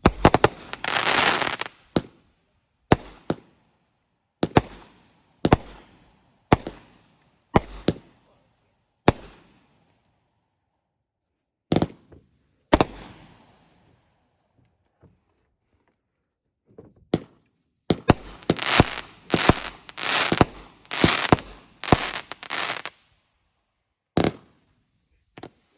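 Fireworks going off: a string of sharp bangs about a second apart, a few more after a pause, then a fast volley of bangs in the last third.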